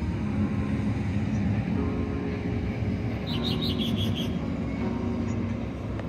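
A steady low rumble with a faint hum runs throughout. Around the middle, a small bird chirps a quick run of about seven short high notes.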